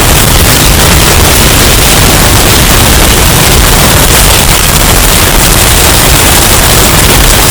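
Hurricane wind sound effect, heavily bass boosted and overdriven into steady, distorted noise with a heavy low rumble.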